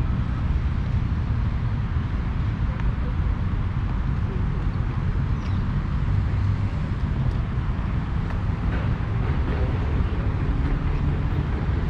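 Steady road traffic: a continuous low rumble of passing cars' engines and tyres.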